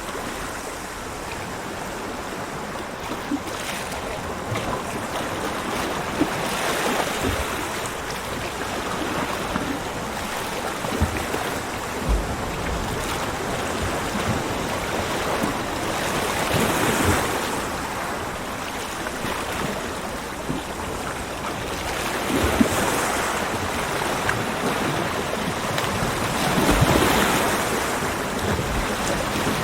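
Ocean waves breaking on a beach, a steady wash of surf that swells with each breaker about every five seconds.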